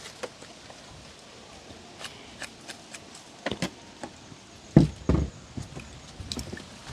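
Knife chopping on a cutting board: scattered irregular taps, with a few heavier knocks about halfway in.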